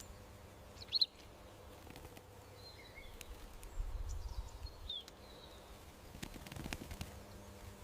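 Garden ambience with small birds chirping: one sharp high chirp about a second in, then several softer short calls in the middle, over a faint low rumble.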